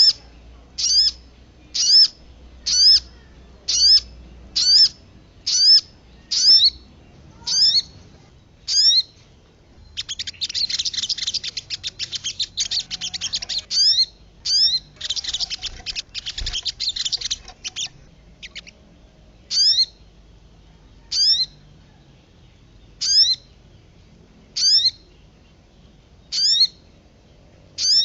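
Kemade and sogon songbirds singing: a sharp, high whistled note repeated about once a second, broken twice by a fast chattering trill, then the single notes slowing to about one every two seconds.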